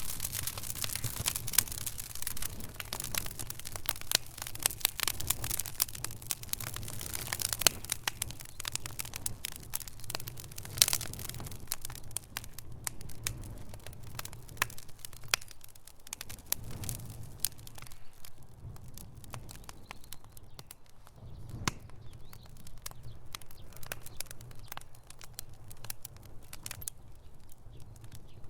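Wood fire burning in a fireplace, crackling: rapid pops and snaps over a low steady rumble. The pops are dense at first and thin out to sparser, sharper snaps about halfway through.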